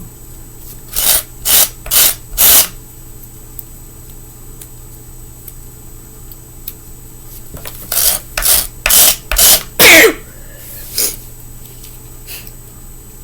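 Short rasping strokes across a fingerboard deck's grip tape edge, done with force: four strokes about a second in, then a quicker run of about six near the end, the last the loudest, and one fainter stroke after.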